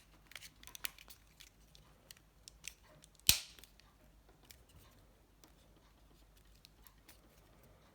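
Small plastic parts of a Nokia 7373 slide phone being handled, with light scattered clicks and one sharp, loud snap about three seconds in: the back cover's snap clips engaging.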